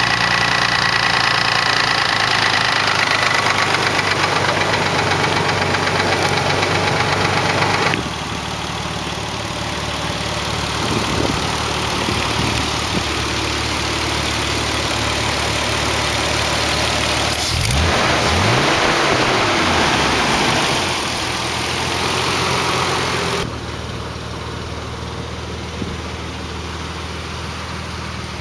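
Nissan 300ZX (Z32) V6 engine idling with a ticking from its valve lifters. The sound changes abruptly twice, and about two-thirds through, the engine is briefly revved up and falls back to idle.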